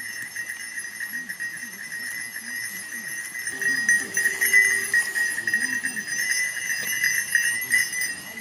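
Wordless improvised vocal performance: a voice wavering up and down in a bleat-like, animal-imitating way, then holding one steady note for a few seconds in the middle. Underneath runs a steady, rapidly pulsing high buzz.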